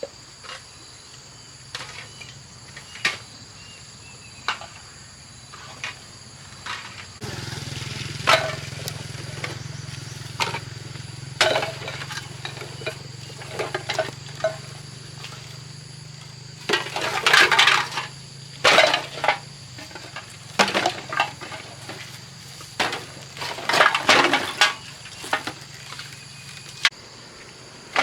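Repeated clinks and clattering of hard objects being handled and knocked together, in irregular bursts that grow busier and louder in the second half, over steady insect chirring. A low hum comes in about a quarter of the way through and fades out past the middle.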